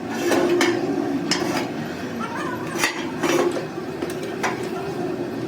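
Metal clinking and knocking, about six sharp, irregular strikes of metal on metal, over a steady low hum.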